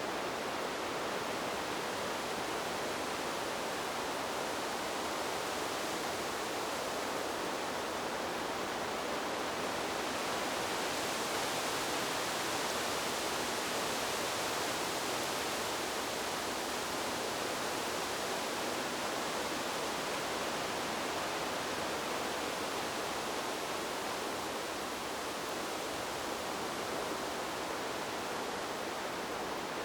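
Wind blowing through trees as a steady, even hiss, swelling slightly in its upper range from about ten to seventeen seconds in.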